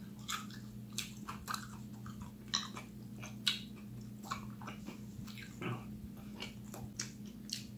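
A person chewing a mouthful of sauced chicken wing: a string of short wet smacks and clicks, roughly one every half second.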